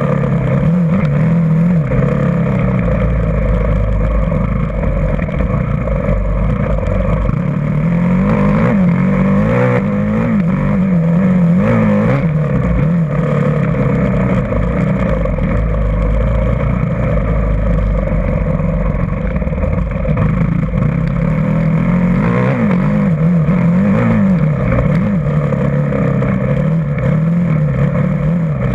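Dirt bike engine running continuously, its revs rising and falling over and over as the throttle is worked.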